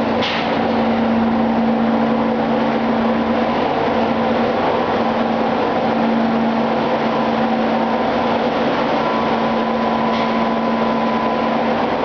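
Ship's engine room machinery running: a loud, steady diesel drone with a strong constant hum, unchanging throughout.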